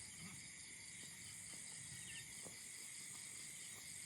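Faint, steady chorus of insects trilling at a high pitch, with a few soft scattered ticks beneath it.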